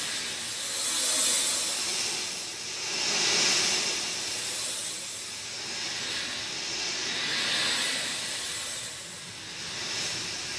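Rain falling: a dense, even hiss that swells and eases in slow waves about every two seconds.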